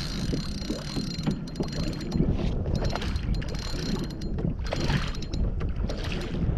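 Wind rumbling on the microphone over irregular clicks and knocks from the fishing gear on the kayak.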